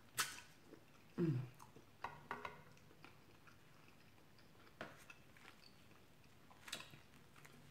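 Close-up eating sounds of a mouthful of chicken tikka masala and rice being chewed, with a few sharp, wet mouth clicks scattered through. The loudest click comes right at the start.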